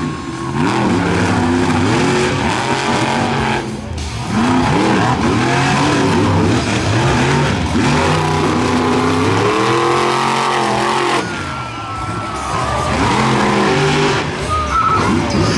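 Monster trucks' supercharged V8 engines racing at full throttle, the pitch climbing and falling again and again as the drivers get on and off the throttle, with short drops in level about 4 and 11 seconds in.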